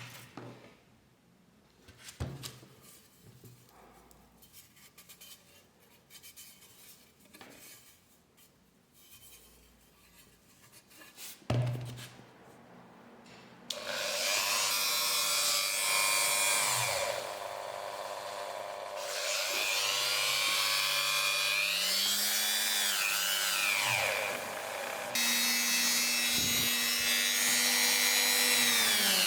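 Faint rubbing and handling with a couple of sharp knocks, then about halfway through a small electric power tool starts up and runs loudly. Its whine rises and falls in pitch several times.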